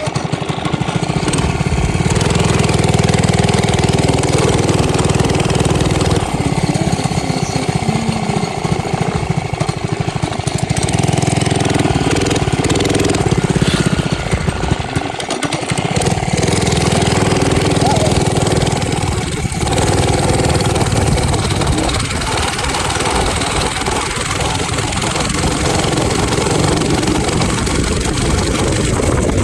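Minibike's small gas engine starting up and then running without a break, as it is ridden.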